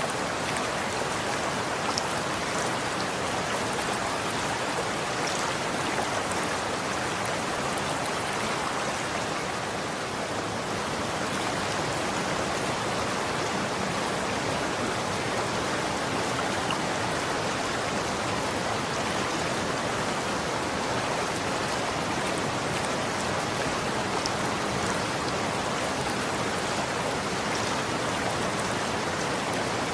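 Running water flowing steadily: an even rush with no let-up, with a few faint splashy ticks.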